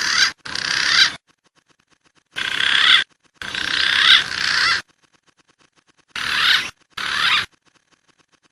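Green pigeon (punai) calls from a bird-lure recording: squeaky, wavering whistled phrases in pairs, each swelling louder and then cutting off abruptly. There are six phrases with short silences between them.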